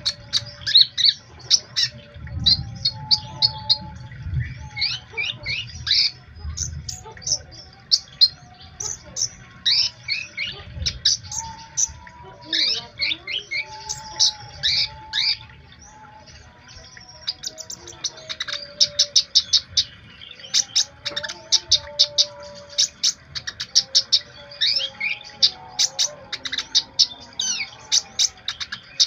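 A konin songbird singing continuously: quick high chirps and sweeping whistled notes, breaking into rapid trains of sharp ticking notes in the second half.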